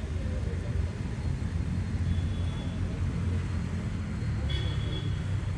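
Steady low outdoor rumble with faint distant voices.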